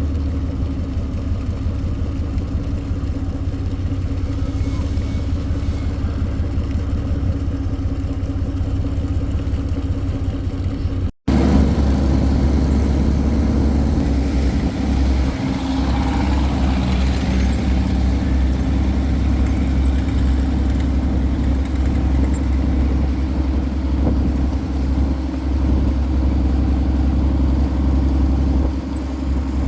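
An engine running steadily with a low, even hum. The sound cuts out for a moment about a third of the way in, then carries on as before.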